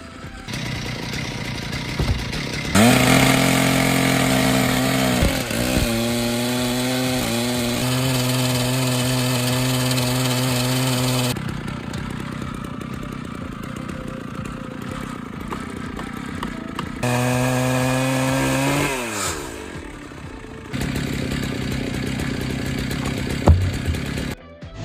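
Chainsaw running at high revs in two long stretches, its pitch dipping briefly once. Near the end of the second stretch the pitch falls away as the throttle is released. Quieter, rougher sound lies between the stretches.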